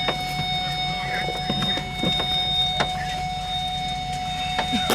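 A car engine idling, heard from inside the cabin as a steady low rumble, with a thin steady high whine over it and a few small clicks and knocks.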